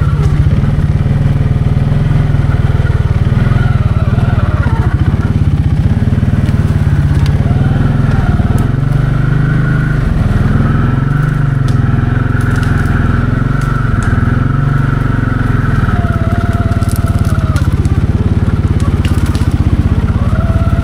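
Can-Am 700 XMR ATV engine running on the move, its pitch rising and falling with the throttle, with scattered crackling and snapping over it through the middle and later part.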